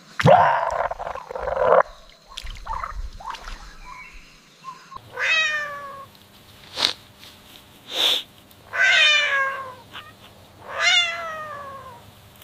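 A cat meowing three times, each call falling in pitch, after a louder, rough, harsh sound at the start. Two sharp clicks fall between the meows.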